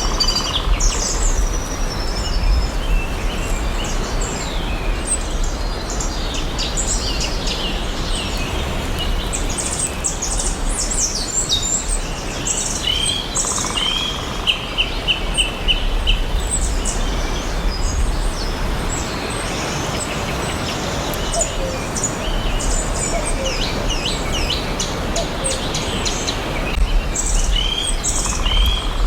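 Several songbirds chirping and singing at once, with many quick high chirps and whistles overlapping. A short trill of evenly spaced notes comes about halfway through and again at the end. Under it runs a steady low rumble of background noise.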